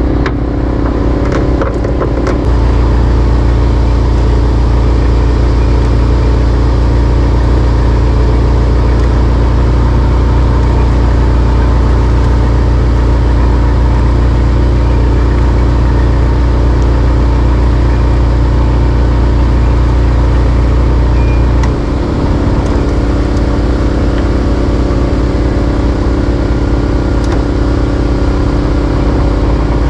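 A Yamaha fishing boat's engine running steadily while under way. The low rumble rises about two seconds in and eases off again about 22 seconds in, as the throttle changes.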